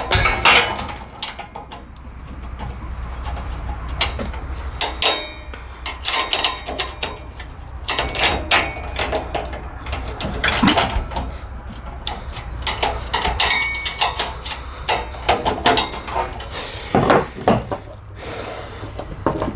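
Irregular metal clanks, clicks and scrapes of steel bracket parts and hand tools being handled and fitted, over a steady low hum.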